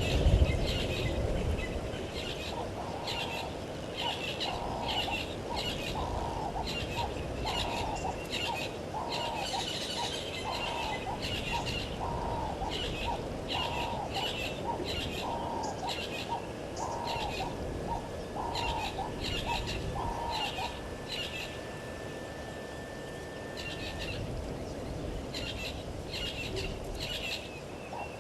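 Wild birds calling at a bush waterhole: short high chirps repeating over and over, with a lower call repeating about twice a second that stops a little past two-thirds of the way in. A faint thin steady whine runs through the later part, over a low rumble of wind.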